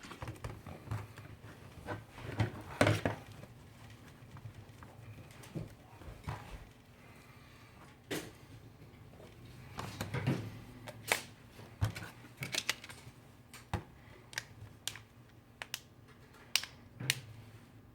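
Irregular small clicks, taps and rubbing from a smartphone being handled and wiped clean on a workbench, at the end of a front-glass replacement.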